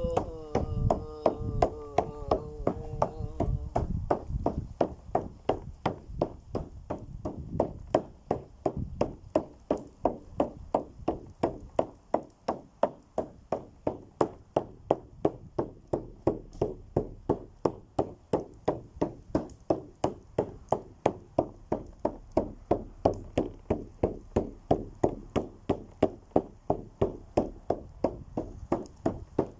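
Steady, even hand-struck beating, about three strokes a second, with a held sung or hummed tone over the first few seconds.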